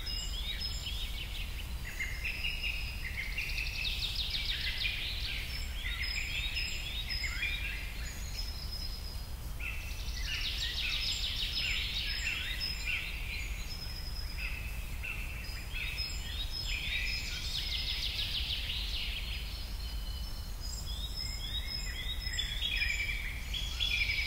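A chorus of small birds chirping and twittering in quick, overlapping repeated phrases, over a steady low hum.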